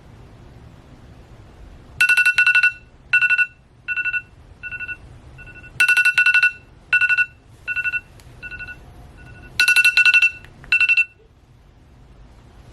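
Electronic ringtone: a rapidly trilled, high single-pitch beep repeated in phrases of several beeps, the phrase starting over three times.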